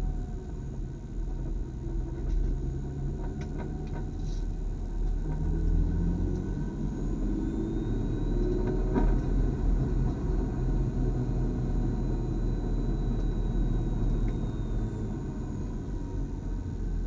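BMW club race car's engine running at low revs with a steady low rumble, its pitch rising gently and easing off again around the middle.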